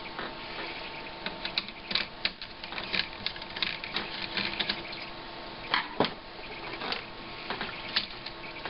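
Irregular clicks and taps of a screwdriver, screws and plastic and metal parts being handled as an LCD monitor is taken apart, over a faint steady electrical hum.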